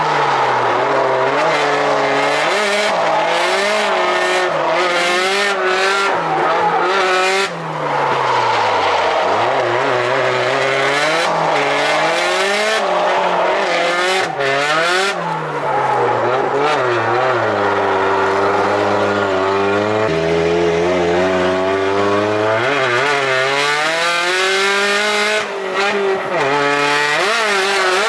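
Car engine driven hard on a circuit, revving up and falling away again and again as it climbs through each pull and drops on lifts and gear changes, with tyre squeal. Around two-thirds of the way through it settles briefly to a low, steady note.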